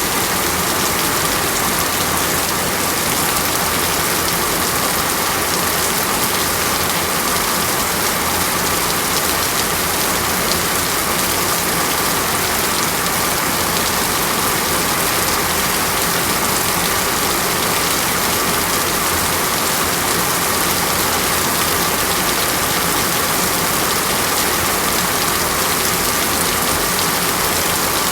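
Steady heavy rain falling in a tropical rainforest, an even unbroken hiss of drops on leaves and surfaces.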